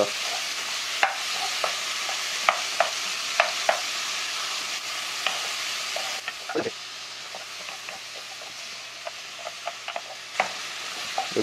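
Meat and shrimp sizzling in hot olive oil in a pan, with sharp clicks of a wooden spatula stirring against the pan. The sizzle drops in level about six seconds in.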